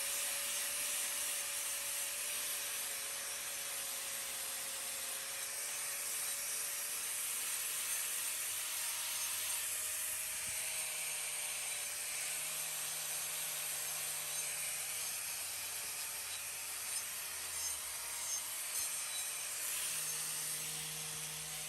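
Power grinder with a roughing wheel running steadily against a cow's hoof claw: a constant whir with a slightly wavering motor tone. It is roughing up the claw's surface so the glue for a hoof block will stick.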